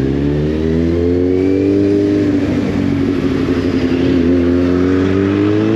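Kawasaki Z800 motorcycle's inline-four engine heard from the rider's seat, pulling under throttle: its pitch rises in the first second, eases off a little in the middle and climbs again near the end.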